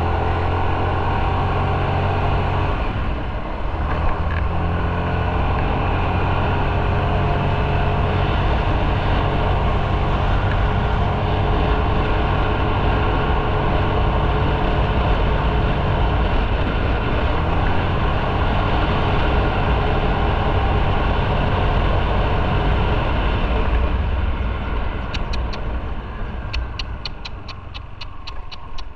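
Motorcycle engine running under way with wind and road noise, easing off about a second before the last five seconds as the bike slows. Near the end a regular high ticking starts, a couple of ticks a second.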